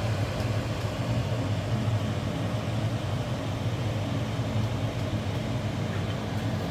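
A steady low mechanical hum with a faint hiss.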